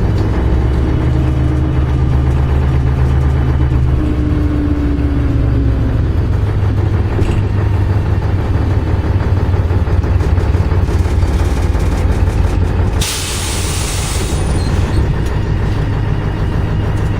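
MAZ-104 city bus's diesel engine running with a steady low drone, heard from on board. About thirteen seconds in, a sharp hiss of released compressed air from the bus's pneumatics lasts just over a second.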